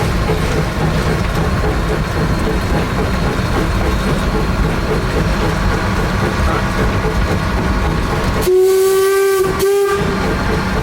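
Rogers-built 1870s steam locomotive K 88 running with a train, a steady rumble and a regular beat. Near the end its steam whistle sounds, one long blast followed at once by a short one.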